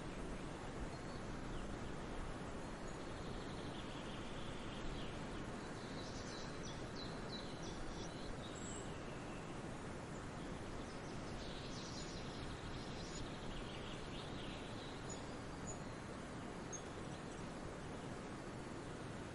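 Forest birds singing in two bouts of song over a steady rushing background noise, with a few short high chirps in the later part.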